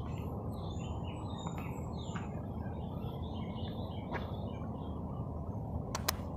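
Birds chirping in many short calls, some falling in pitch, over a steady low outdoor background noise, with two sharp clicks near the end.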